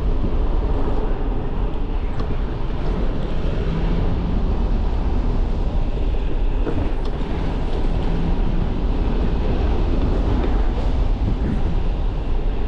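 Motorcycle engine running steadily, with wind buffeting the microphone.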